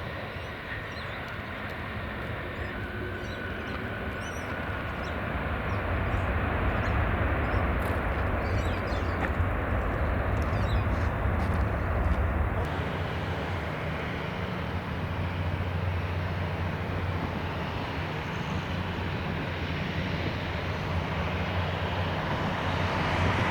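Jet airliner engines running: a steady rumble and roar that swells about six seconds in and changes abruptly about halfway through.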